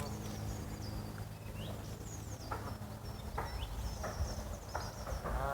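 Small birds chirping outdoors over a steady low hum, with a few soft clicks in the second half and a short wavering call near the end.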